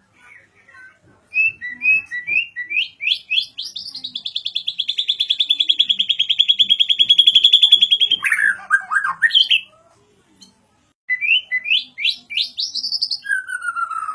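A white-rumped shama (murai batu, Medan type) singing: quick rising notes build into a long rapid trill that grows louder, then drops into lower falling notes. After a short pause about ten seconds in, it starts new phrases of rising notes and a falling whistle.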